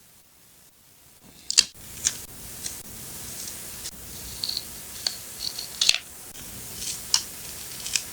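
Scissors cutting paper: about half a dozen sharp snips over a steady rustle of paper being handled, starting about a second in.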